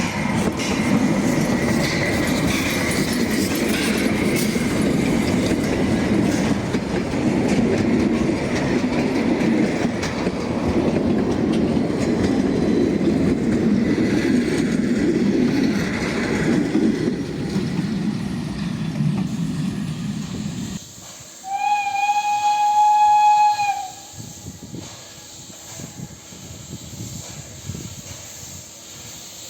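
Narrow-gauge train running, with a steady rumble and rattle of wheels on the track. About two-thirds of the way in, the sound cuts and a locomotive whistle sounds once on a single steady note for about two and a half seconds.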